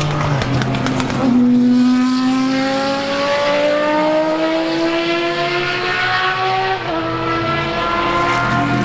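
Racing car engine under hard acceleration, its pitch climbing steadily through one long gear, then an upshift about seven seconds in and the engine pulling again. A few sharp pops just before the climb begins, about a second in.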